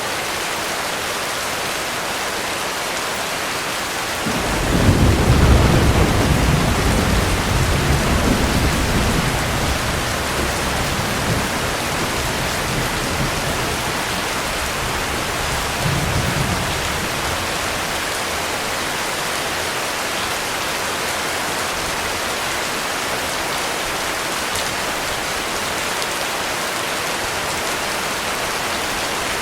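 Heavy rain falling steadily, with a long roll of thunder starting about four seconds in and fading away over several seconds, and a smaller rumble of thunder about sixteen seconds in.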